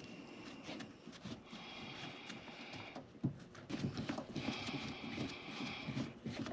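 Wiper arm puller being wound down on a BMW E39 M5 wiper arm to pull it off its splined shaft: irregular clicks and knocks of metal tool work, with two high squeaking stretches, each over a second long.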